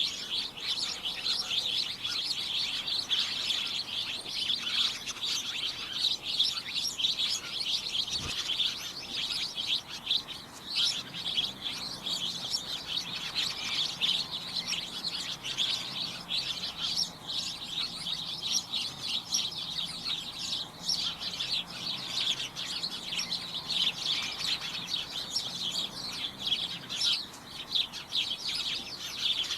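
A flock of small birds chirping and tweeting continuously, many short overlapping high-pitched calls.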